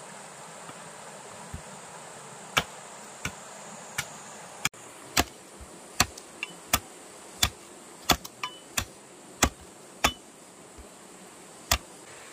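A series of sharp knocks, irregular and about one to two a second, a few with a short ring, like repeated tool strikes, over a steady hiss and a high insect-like whine.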